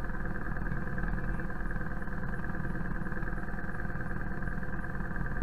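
BMW R 1250 GS Adventure's boxer twin engine running steadily as the motorcycle climbs slowly up a dirt track.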